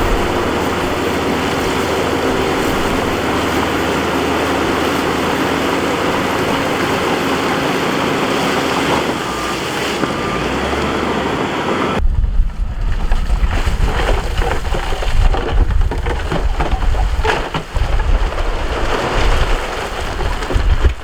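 Diesel engine of heavy earthmoving equipment running steadily. About twelve seconds in the sound cuts to a lower, gusty rumble with wind buffeting the microphone.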